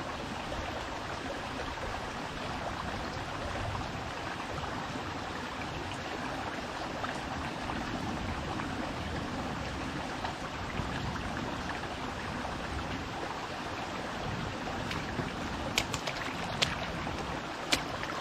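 Small fast-flowing forest stream running steadily over stones. A few sharp clicks come near the end.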